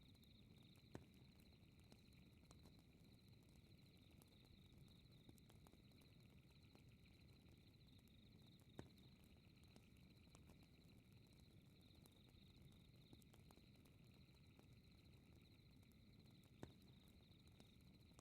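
Faint fireplace ambience: a low, steady fire hiss with three sharp crackling pops, about one, nine and seventeen seconds in, over a steady, high-pitched, rapidly pulsing chirp.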